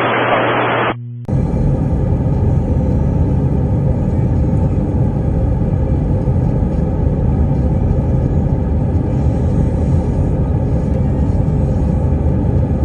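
Narrow-band radio hiss that cuts off about a second in, then the steady rumble of an Airbus A319 in flight, heard from inside the cabin during its descent.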